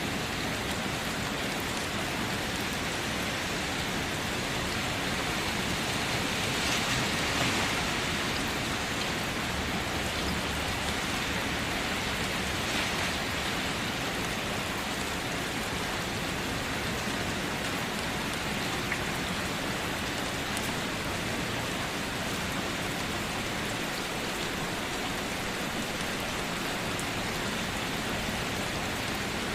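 Steady rain falling, an even dense hiss of drops with no pauses, swelling slightly about seven seconds in.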